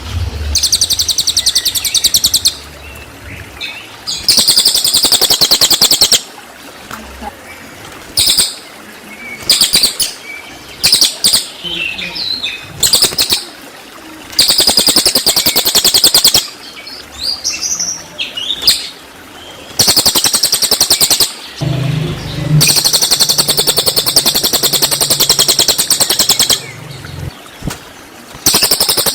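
Cililin bird song played as a masteran: loud bursts of very fast, evenly repeated high-pitched notes ('tembakan'), each lasting a couple of seconds, broken up by shorter varied chirps and brief pauses. The longest burst comes about two-thirds of the way through.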